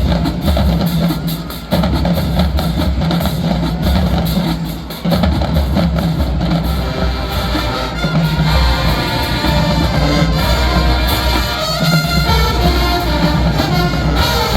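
Marching band playing a song: brass over a pounding drum beat, briefly dropping out twice near the start.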